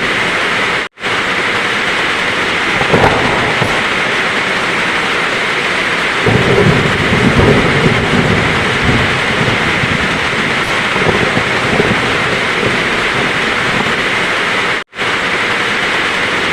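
Heavy rain falling steadily, with a short crack of thunder about three seconds in and a longer rumble of thunder from about six to nine seconds. The sound drops out completely for an instant twice, near the start and near the end.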